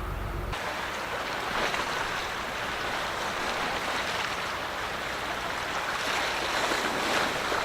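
Steady rushing of churning water, swelling slightly a couple of times. A low engine hum cuts off suddenly just after the start.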